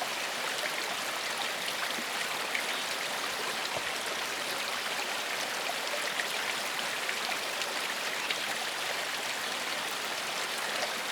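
Gentle forest stream flowing over rocks: a steady rush of water with small splashes and trickles.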